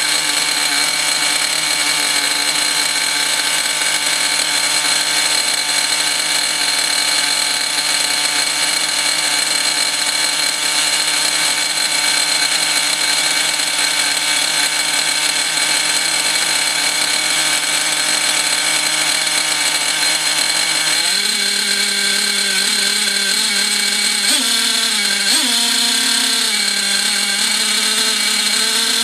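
O.S. Max glow-fuel two-stroke model engine running fast with a high-pitched buzz, rough during break-in on a very rich needle setting, which the owner blames mainly on two-year-old fuel and an exhaust not suited to the engine. Its pitch steps up about two-thirds of the way through, then wavers up and down.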